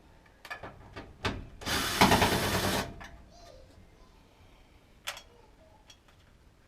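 Power drill with an 8 mm deep socket running for about a second, driving out a screw on a furnace draft inducer blower. Light clicks and knocks of the socket and tool come before it, and one more click follows.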